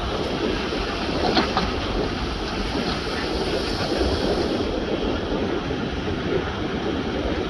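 Heavy diesel earthmoving machinery running steadily, with a couple of brief clanks about a second and a half in.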